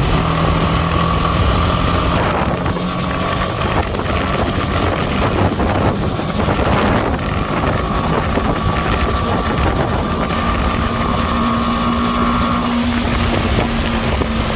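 Motorcycle being ridden at speed: a steady engine drone under heavy wind noise buffeting the microphone.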